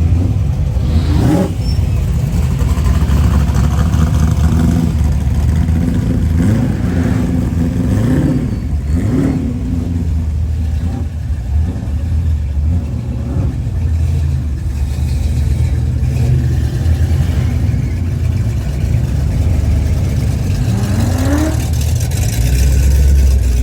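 Car engines rumbling steadily, revved up in short rising sweeps about a second in, twice around eight to ten seconds, and once more near the end.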